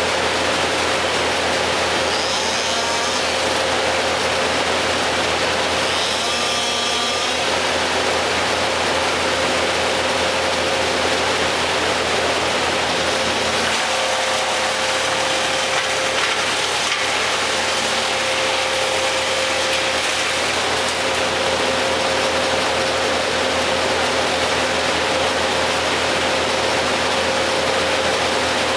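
Tree-work machinery running steadily: a continuous engine-like noise with a constant hum, and two brief higher-pitched whines about two and six seconds in.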